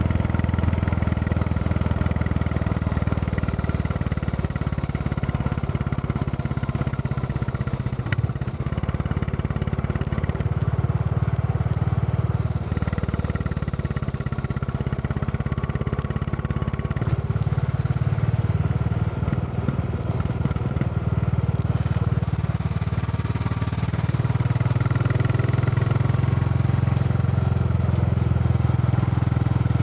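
Royal Enfield Classic 350 single-cylinder engine running under way, the steady thump of the motorcycle with its pitch and load shifting a few times, a brief dip about eight seconds in and a louder stretch near the end.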